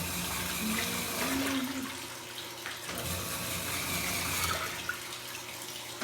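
Water gushing into a washing machine tub as it fills, a steady rushing splash.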